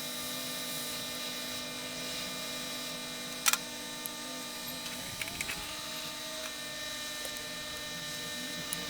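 Steady whirring hum from microsoldering bench equipment, with one sharp click about three and a half seconds in and a few faint ticks around five seconds.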